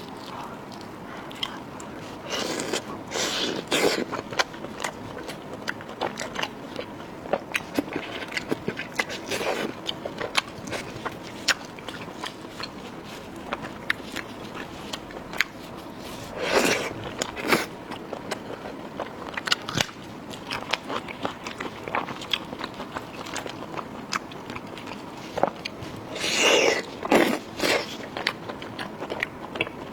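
Close-miked eating of ribs: steady wet chewing and mouth clicks, with a few louder bites about two seconds in, midway and near the end.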